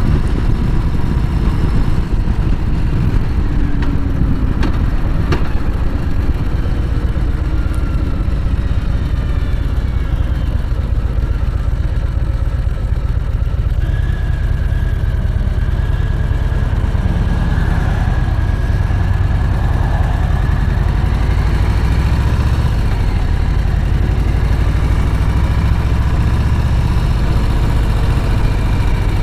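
Harley-Davidson V-twin motorcycle engine running steadily with a low rumble.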